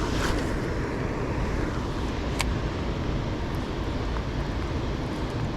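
Wind buffeting the microphone over a steady hiss of rain, with a couple of sharp clicks.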